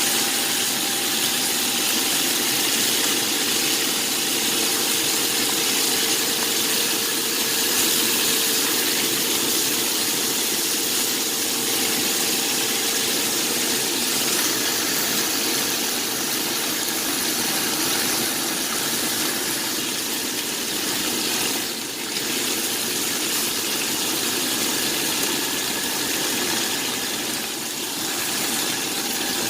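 Chicken adobo sizzling and simmering in soy-based sauce in a pan, a steady hiss with a faint steady hum beneath it.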